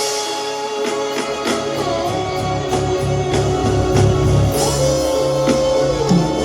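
Live band music with a steady beat: sustained guitar and keyboard-like melody lines over bass and drums, no vocals.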